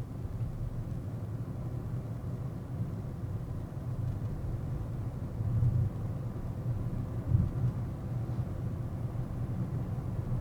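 Car driving, heard inside the cabin: a steady low engine and road rumble, with a couple of brief louder thumps a little past halfway.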